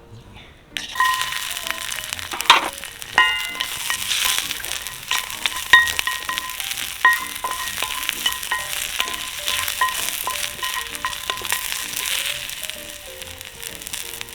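Food sizzling in hot olive oil in a pan. The sizzle starts suddenly about a second in as the food goes into the oil, with a few sharp knocks of utensils on the pan.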